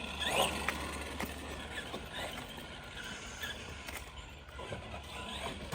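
Arma Granite Boost RC monster truck driving, its brushed 550 electric motor whining in several short rising bursts as the throttle is worked, with scattered clicks and knocks from the truck on the ground.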